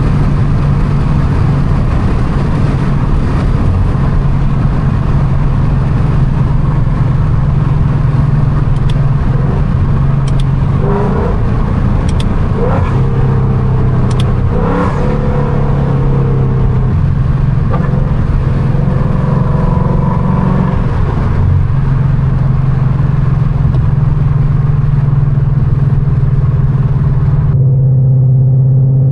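2019 Mustang GT's 5.0 L V8 with catless headers and straight-piped exhaust, running loud and hard while the car is slid, with short higher squeals through the middle. Near the end the sound turns suddenly duller, leaving a deep steady drone.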